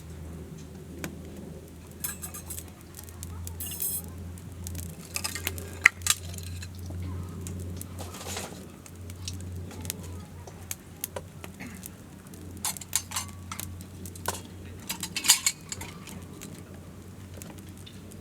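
Scattered clinks, knocks and short clatters of hard objects being handled, like dishes or metal gear, over a low steady hum.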